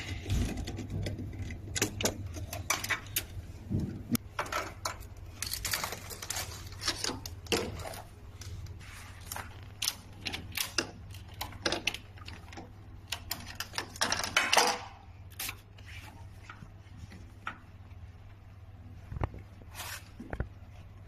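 Hand tools and small metal parts clicking and clinking irregularly while machine wiring is taken apart, with a steady low hum underneath. The clicks thin out after about fifteen seconds.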